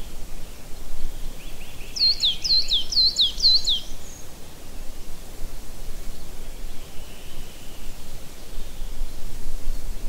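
A songbird sings a short phrase of about five sharp, quickly repeated whistles, each sliding steeply down in pitch, about two seconds in, with fainter chirps before and later. A steady rushing background runs underneath.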